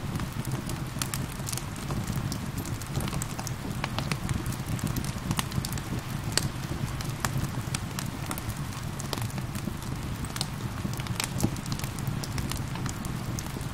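Wood fire crackling with frequent sharp, irregular pops over a steady low rumble, mixed with the hiss of falling rain.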